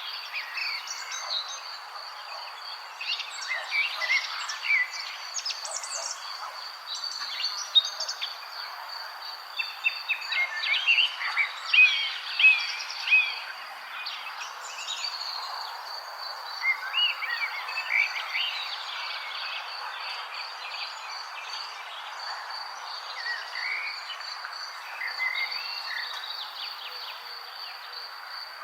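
Many songbirds chirping and singing at once, quick overlapping twitters and warbles that come thickest in the middle. Beneath them runs a steady high-pitched trill and a constant outdoor hiss.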